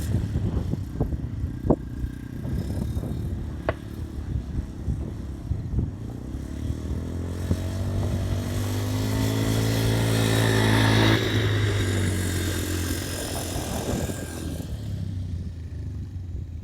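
Quad bike engine running, growing louder as it approaches at speed, loudest with a rushing hiss about eleven seconds in as it passes through the puddle, then dropping in pitch and fading away.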